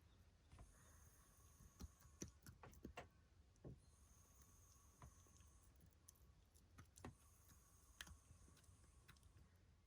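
Near silence: room tone with faint, scattered short clicks and taps.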